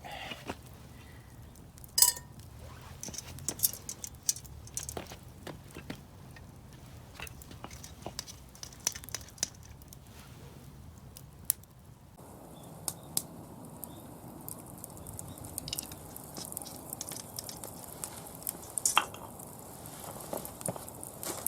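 Wood fire crackling and popping in a small fire pit, with occasional light metal clinks. About twelve seconds in a steady hiss joins in.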